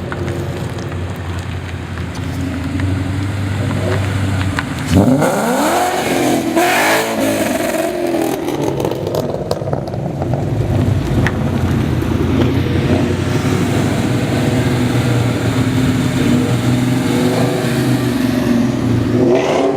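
Car engines running as cars drive off. About five seconds in, one engine revs hard, its pitch sweeping up and back down, then the steady engine sound goes on.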